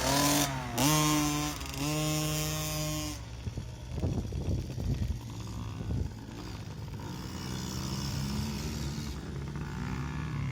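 Yamaha PW50 minibike's small two-stroke engine revving hard for about three seconds, its pitch climbing about a second in and held high, as it pulls away from the start. Then it fades into a rougher, quieter stretch, and a steadier, fainter engine drone returns from about seven seconds.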